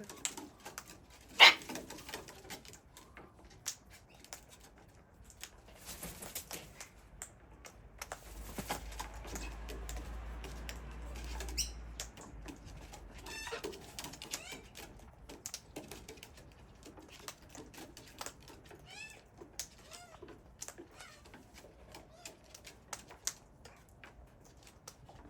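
Wild long-billed corellas and sulphur-crested cockatoos feeding close by: irregular sharp clicks and taps of beaks pecking and cracking corn, with brief wing flaps and a few short squawks. There is one loud click about a second and a half in, and a low rumble for a few seconds in the middle.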